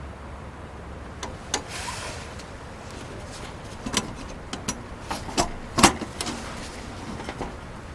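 A string of light clicks and knocks, the loudest about six seconds in, with a brief rustle about two seconds in.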